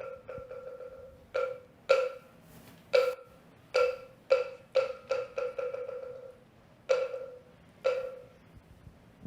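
Moktak, a wooden temple block, struck in a run of ringing, single-pitched knocks: a few spaced strokes, a quickening roll near the middle, then two slower strokes. It marks the bow to the Buddha.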